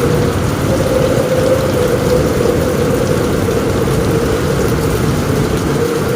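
Heavy rain falling steadily on a roof, a dense even rush with a faint humming tone that wavers slightly through it.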